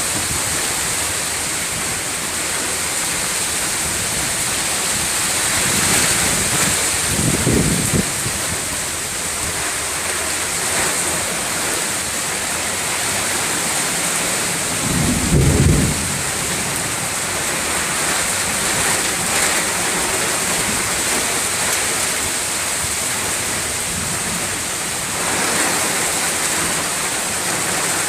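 Rain falling steadily, an even hiss that swells a little near the end, with two short low rumbles about 7 and 15 seconds in.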